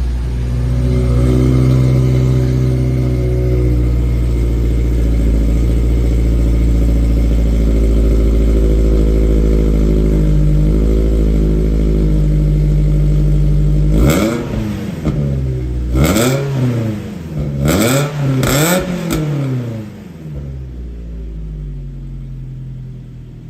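Mazda NC Miata's four-cylinder engine through a full aftermarket exhaust (header, Helmholtz midpipe, Roadstersport 2 muffler), idling steadily just after starting. About two-thirds of the way through it is blipped in about five quick revs, each rising and falling, then drops back to a quieter idle.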